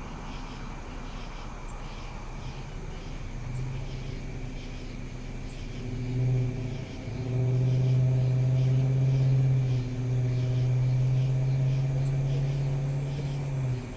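Motor vehicle engine running steadily with a low, even hum. It comes in a few seconds in, grows louder, dips briefly twice and cuts off abruptly near the end.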